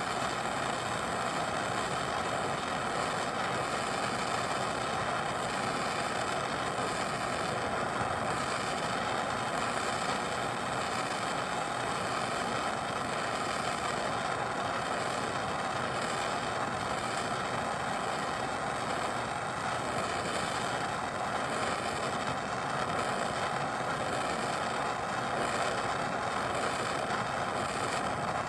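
Handheld gas torch burning with a steady hiss, heating a seized strut fastener to free it.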